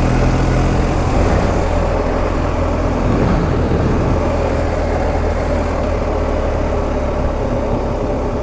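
BMW R 1250 GS Adventure's boxer-twin engine running steadily as the bike rides along, with steady wind noise over it.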